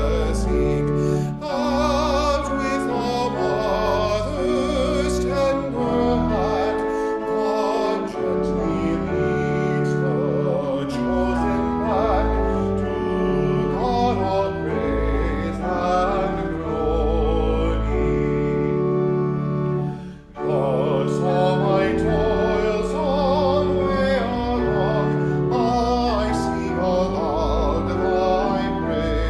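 Classical-style singing with vibrato over a keyboard accompaniment, with held notes and a short break between phrases about two-thirds of the way through.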